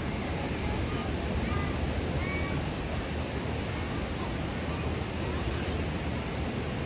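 A few short bird calls over a steady rushing background noise.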